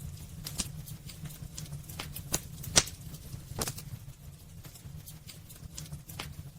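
Wood fire burning in a fireplace: irregular sharp crackles and pops over a steady low rumble, with the two loudest pops about three and three and a half seconds in.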